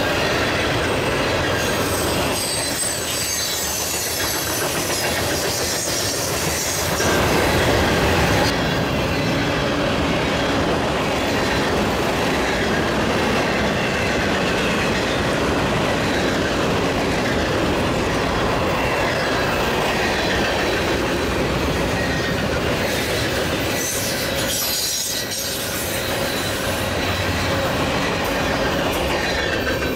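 Freight train of tank cars, boxcars and covered hoppers rolling past at speed: a steady rumble of steel wheels on rail, with high-pitched wheel squeals coming and going.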